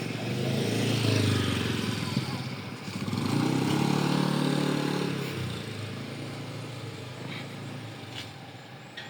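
A motor vehicle engine running, swelling about a second in and again a few seconds later, then fading away.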